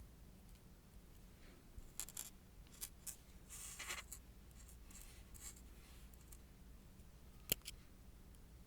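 Small close-up handling sounds of nail-art work: a few light scratching strokes and taps on a nail or tool, then one sharp click about seven and a half seconds in.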